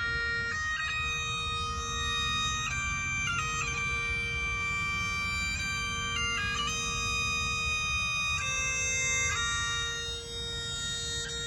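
Bagpipes playing a slow melody over a steady drone.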